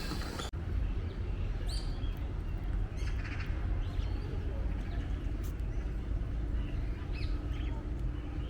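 Scattered short bird calls, a few at a time, over a steady low rumble. The sound cuts sharply about half a second in.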